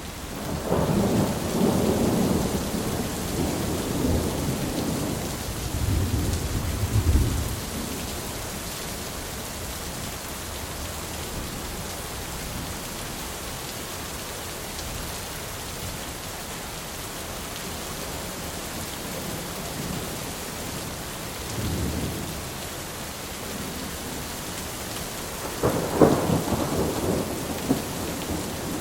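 Thunderstorm: steady heavy rain with rolling thunder. A long deep rumble runs through the first several seconds, a shorter one comes about three-quarters through, and a sharper, louder clap near the end.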